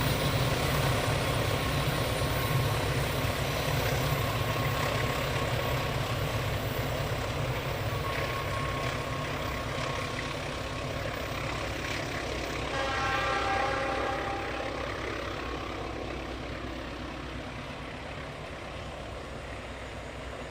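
Argo Wilis passenger train running on the rails: a steady low rumble and wheel noise that slowly fades. A brief pitched tone sounds about 13 seconds in.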